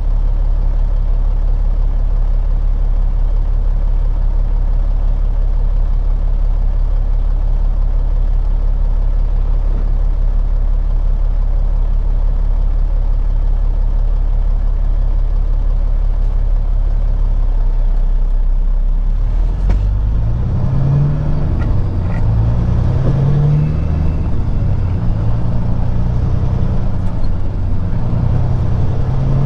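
Peterbilt 379 semi truck's diesel engine running steadily at low revs, then from about two-thirds of the way in rising in pitch and dropping back several times as the truck pulls away through the gears.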